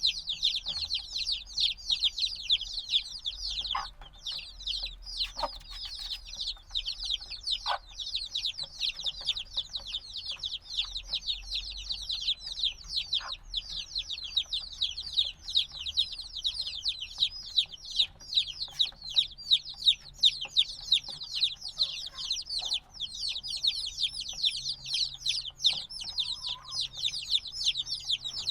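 A brood of chicks a few days old peeping loudly and continuously, many short, high, downward-falling cheeps overlapping in a dense chorus. These are the loud distress peeps of chicks that still want the warmth of their mother.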